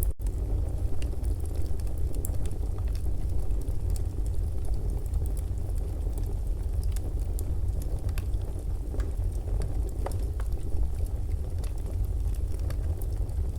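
Fireplace fire burning, with scattered small crackles and pops over a low steady rumble.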